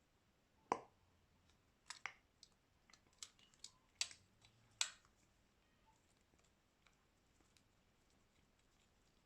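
A scattered series of sharp little clicks and taps, about eight in four seconds, from small tools and plastic phone parts being handled during a smartphone screen replacement; the first and last are the loudest.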